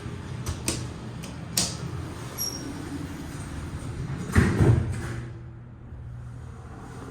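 KONE elevator's glass doors sliding shut, with a few light clicks and then a loud thump about four and a half seconds in as they close; the surrounding noise is muffled afterwards.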